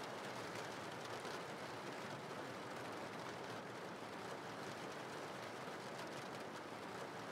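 Soft, steady rain: an even hiss of falling drops.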